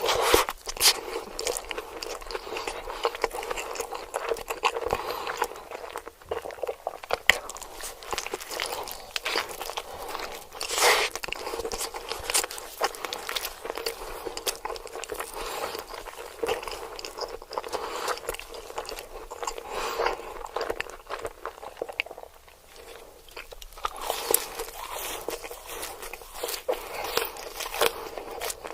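Close-miked eating: repeated crunchy bites and chewing of fried chicken, crackling densely, with a short quieter lull near the end.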